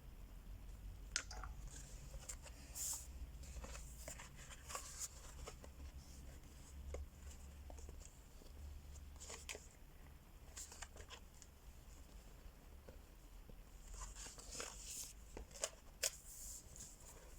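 Crayola wax crayons scratching across a coloring-book page in irregular strokes, with scattered light clicks and paper rustles from the crayons and page being handled.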